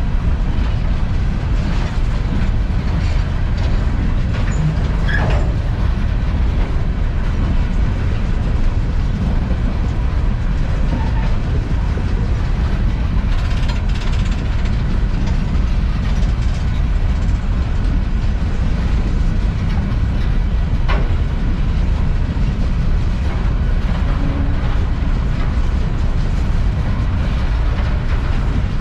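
Empty CSX coal train rolling past: a steady, loud rumble of the empty hopper cars on the rails, with a few brief sharp clanks or squeals along the way.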